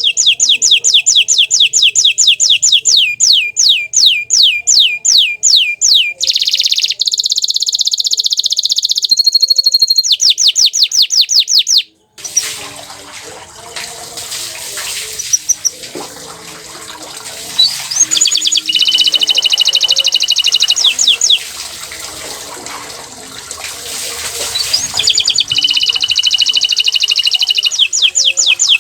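Bottle-green canary singing fast trills of repeated sweeping notes. The song breaks off about twelve seconds in and comes back quieter, in two trill bouts over a steady rushing hiss.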